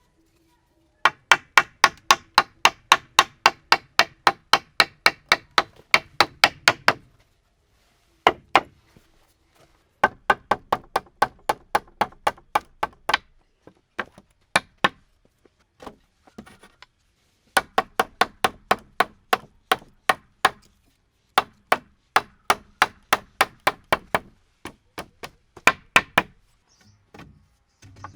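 Fast, regular hand-tool blows on wood, about four to five strikes a second, in three long runs with short pauses between.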